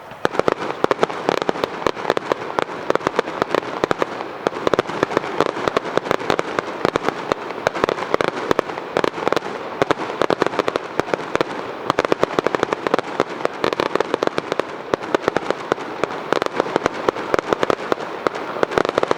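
Fireworks going off in a dense, continuous barrage of rapid cracks and pops, many a second, starting abruptly just after the start.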